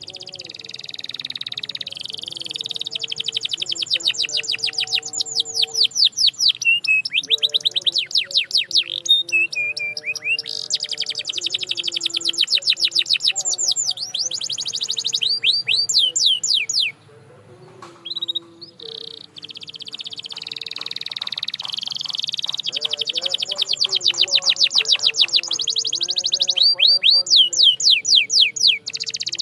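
Canary singing long, rapid trills: runs of quickly repeated high sweeping notes that change pace from tour to tour, with a short break about two thirds of the way through.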